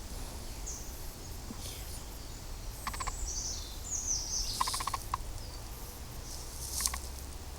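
Wild birds calling outdoors, with high chirps sliding downward around the middle and a few short rapid clicking bursts, over a steady low rumble.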